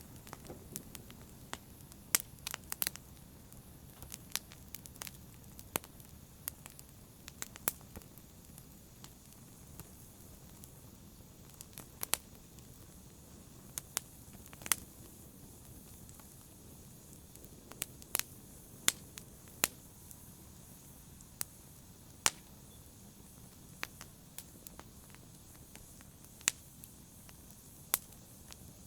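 Wood fire crackling in a fireplace: sharp, irregular pops and snaps over a low steady hiss of burning.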